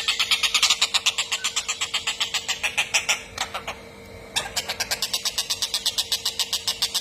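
Kingfisher giving its long, rapid cackling call, a fast, even run of harsh high notes at about eight a second. The run breaks off for about a second a little past the middle, then starts again.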